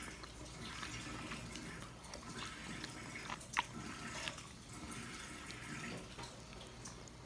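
A person chewing a sticky cassava and brown-sugar cake close to the microphone: soft wet mouth sounds and small clicks, with one sharper smack about three and a half seconds in.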